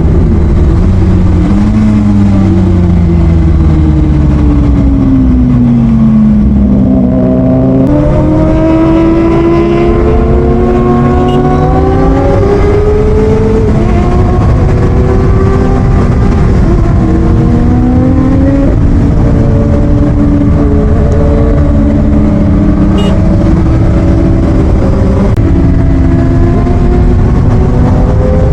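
Motorcycle engine under way, its pitch falling and rising in steps as it slows, accelerates and shifts through the gears, over a steady rush of wind.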